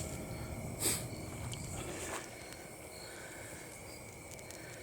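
Wood campfire burning, with a sharp pop at the start and another just under a second in, then fainter crackles. Steady high-pitched insect calls run underneath.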